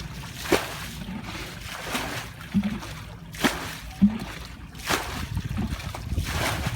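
Shallow water splashing and sloshing in a string of separate splashes, roughly one every half second to a second.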